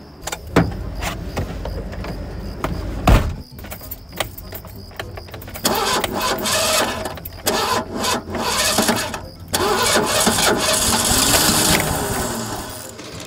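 Two thumps from the pickup's cab door, then the truck's engine cranked on the key in three long attempts with short pauses between, the starter turning it over without it catching: the truck won't start.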